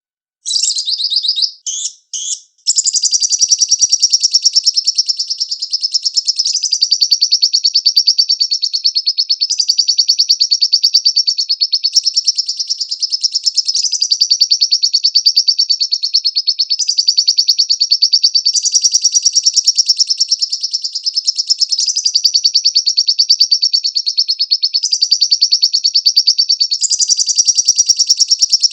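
Lovebird singing: a few short bursts, then a long, unbroken, rapid high-pitched chattering trill that shifts its pattern every couple of seconds.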